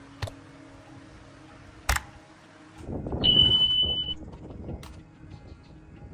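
Two sharp clicks, then a rush of low noise with a steady high electronic beep lasting about a second.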